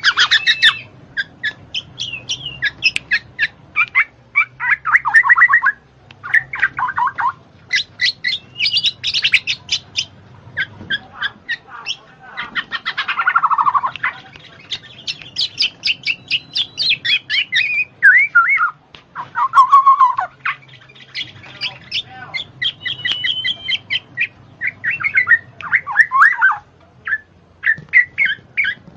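A bird calling over and over in bursts of rapid chattering notes and squawks, each run lasting a second or two with short pauses between.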